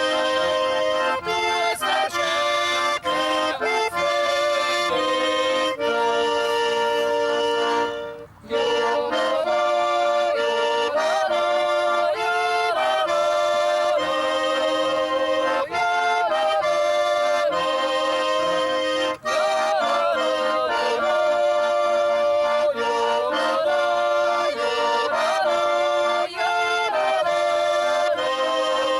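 Accordion music: a lively folk tune of sustained reedy chords under a moving melody, with a brief break about eight seconds in.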